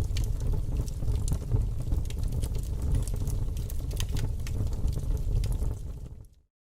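Fire crackling: scattered sharp pops and snaps over a steady low rumble, fading out to silence near the end.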